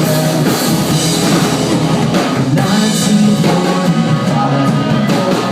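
Live rock band playing: electric guitars, bass and drum kit at full volume, an instrumental stretch of the song between sung lines.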